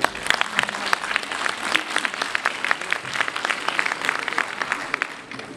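Audience clapping, a dense patter of many hands that thins out and dies away near the end.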